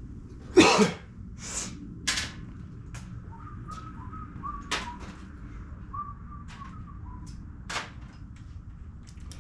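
Metal hand tools clinking and knocking: one loud clank about half a second in, then softer scrapes and scattered sharp clicks. A faint wavering whistle runs through the middle.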